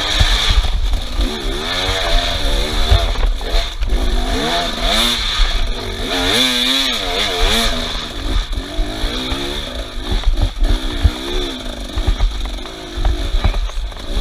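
Off-road motorcycle engine revving up and down over and over, its pitch rising and falling about once a second, over an uneven low rumble with short knocks.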